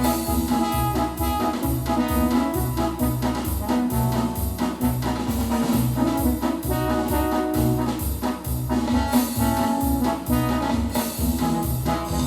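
Yamaha DX7 FM synthesizer playing a brass-like patch: held chords over a low bass note pulsing about two to three times a second.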